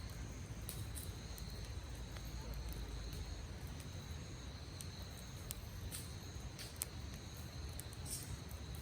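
Wood campfire crackling with scattered sharp pops, over a low rumble and the steady high chirring of insects, likely crickets.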